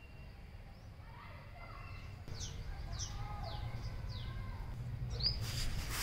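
Small birds calling outdoors: a run of four quick, downward-sliding chirps, about two a second, then a louder, sharper call near the end, over low steady background noise.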